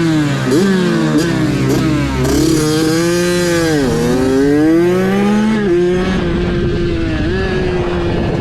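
Motorcycle engine revving: several quick throttle blips in the first two seconds, then longer rises and falls in pitch, holding a steadier note over the last couple of seconds.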